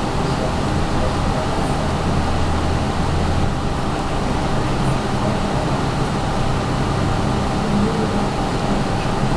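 Steady, even background rumble with a low hum, like a running fan or distant traffic, unchanged throughout.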